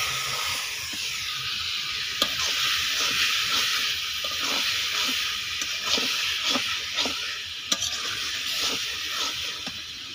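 Raw chicken pieces sizzling in hot masala in a steel kadai, with a spatula scraping and stirring through the pan again and again. The sizzle eases near the end.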